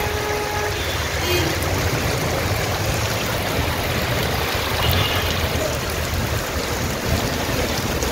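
Rain falling steadily, a continuous loud rushing hiss.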